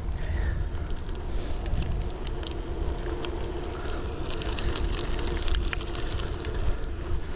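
Riding a ZiZZO Urbano folding bike on a paved path: wind rumbling on a camera microphone under a foam wind cover, with scattered light ticks and rattles.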